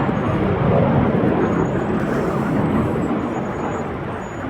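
BAE Hawk jet trainers' turbofan engines, a steady rushing noise of jets flying overhead that slowly fades.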